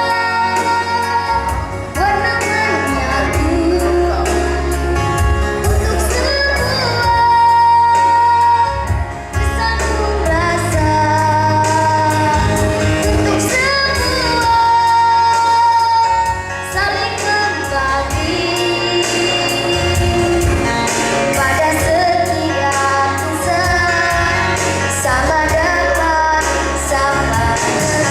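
A child singing in a shrill, high-pitched voice over a band accompaniment with a steady bass, the melody moving through several long held notes.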